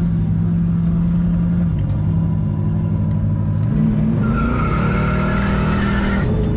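Car engine running with a deep, steady rumble, revving up slightly about four seconds in. A high, wavering squeal joins it for about two seconds near the end.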